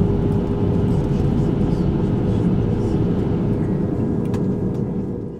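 Airbus A220's Pratt & Whitney PW1500G geared turbofan engines running, heard from inside the cabin as a steady low rumble with a constant hum. It fades away near the end.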